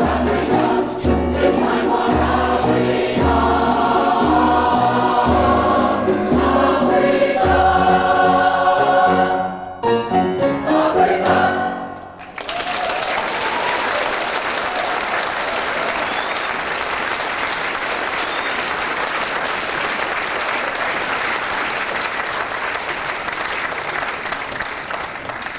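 Mixed community choir singing with regular drum beats. The song ends about halfway through with a final held chord, and the audience breaks into steady applause.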